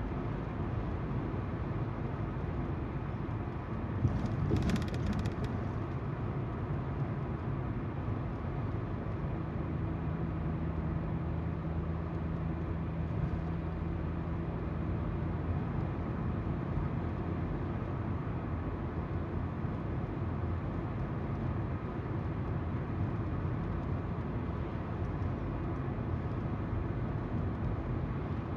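Car driving: steady tyre noise on the road and engine hum, with a brief rattle about four seconds in.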